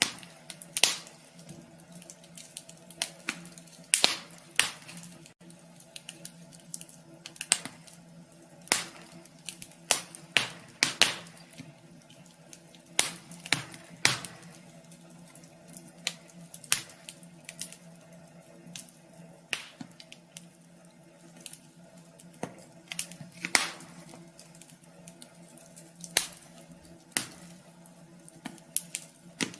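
Wood fire crackling in a wood stove: irregular sharp pops and snaps, some much louder than others, over a faint steady hum.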